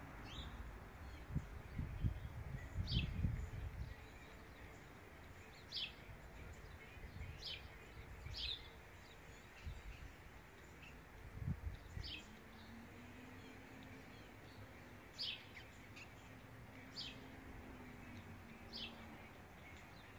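A small bird chirping: short, high, downward-sweeping chirps every second or two. Low rumbling bursts on the microphone are loudest a few seconds in and again about halfway through.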